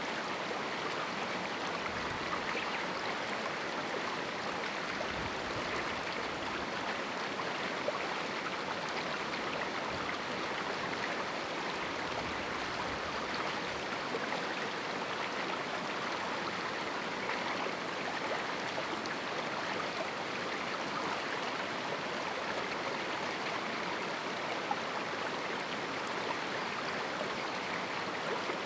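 River water rushing and splashing over rocks in a small canyon: a steady, even sound.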